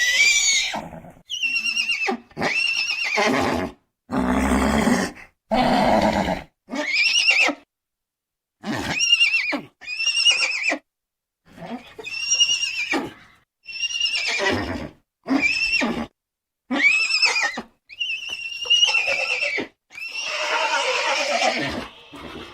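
A rapid series of about fifteen separate horse whinnies, each a high call that arches up in pitch and falls away, with a couple of lower, rougher calls about four to six seconds in; each call is cut off into dead silence before the next.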